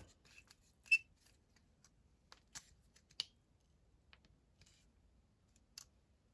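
Scattered small clicks and taps of small metal carburettor parts and hand tools being handled, with two sharper clicks about a second in and just after three seconds in.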